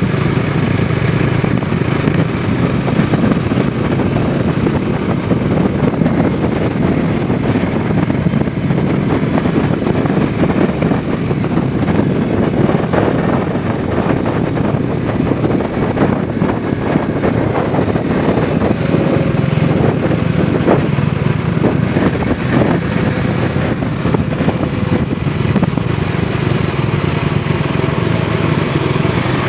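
Bajaj Dominar 400 BS6's single-cylinder engine and exhaust running steadily while the motorcycle is ridden along the road.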